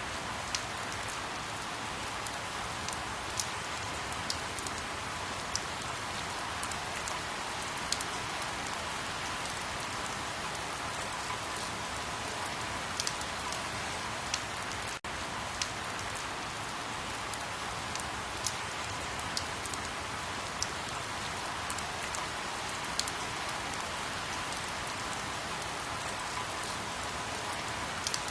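Steady rain falling: an even hiss with scattered sharp drop ticks, broken by a momentary dropout about halfway through.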